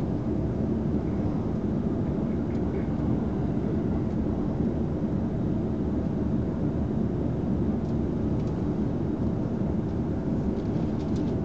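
Steady low rumble of a moving electric passenger train, heard from inside the carriage: wheels on rail and running gear, with a few faint ticks near the end.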